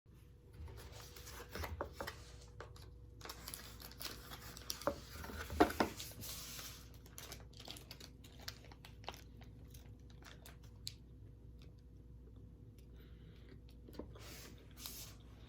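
Crinkling and rustling, like packaging being handled and torn, with scattered sharp clicks. The busiest, loudest stretch comes in the middle.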